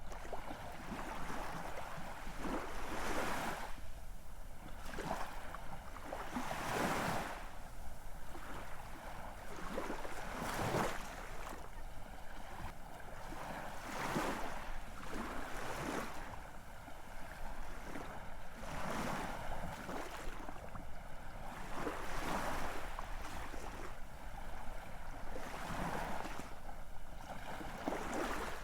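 Ocean waves breaking and washing on a shore: a steady hiss of surf that swells into a louder rush every three or four seconds.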